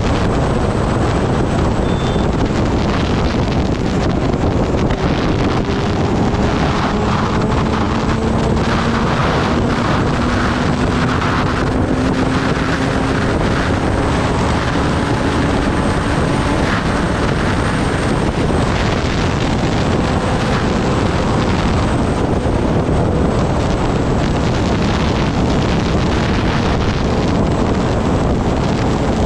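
Kawasaki Ninja ZX-10R's inline-four engine running at speed, largely buried under heavy wind rush on the microphone; the engine note climbs slowly through the middle.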